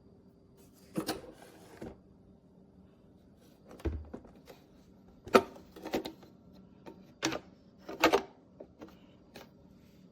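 A string of irregular light knocks and clacks, about eight or nine, spaced roughly a second apart, like hard objects being handled and set down, over a faint steady hum.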